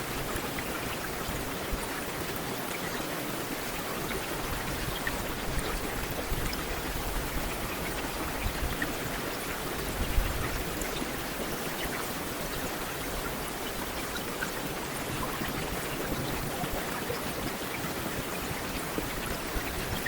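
Heavy rain falling steadily, a dense even hiss with scattered individual drops ticking. A brief low thump about ten seconds in.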